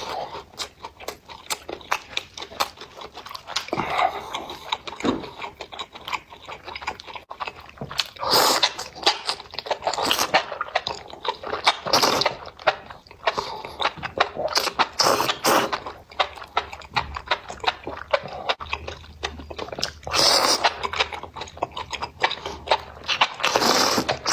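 Close-miked eating: a person chewing food with dense wet mouth clicks, broken by several longer slurps.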